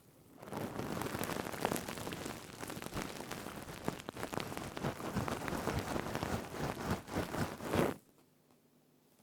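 Stainless steel scrubber rubbed and squeezed close to the microphone: a dense, crinkly crackle of many tiny clicks that starts about half a second in and stops near the end.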